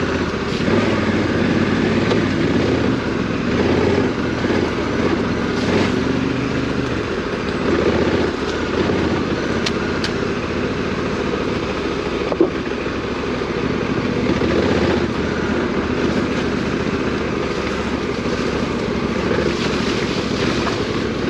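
Parallel-twin adventure motorcycle engine running while riding off-road, the pitch rising and falling with the throttle. A single sharp knock comes about twelve seconds in.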